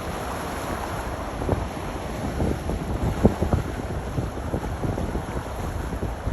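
Wind buffeting the microphone in irregular gusts over a steady low rumble of boats and water.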